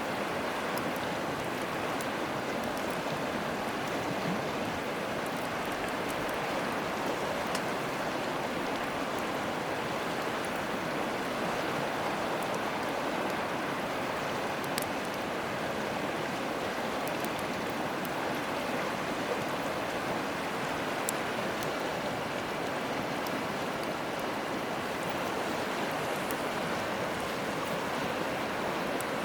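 A riverside stream flowing steadily, with faint scattered crackles and pops from a wood campfire.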